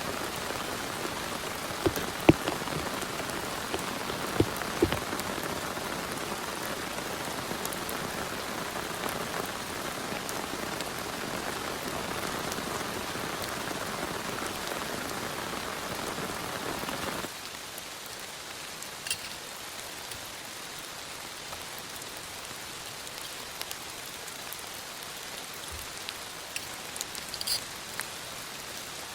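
Heavy rain falling steadily, with a few loud, sharp drop hits in the first few seconds. About 17 s in, the sound suddenly drops to a lighter, thinner rain hiss with scattered drips.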